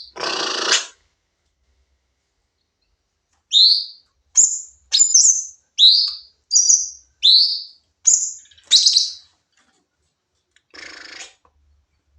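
Cucak cungkok singing a rapid run of about eight loud, sharp whistled notes, each sweeping downward and spaced well under a second apart. This is the bird's 'nembak' full-song delivery. A brief rustle comes near the start and a fainter one near the end.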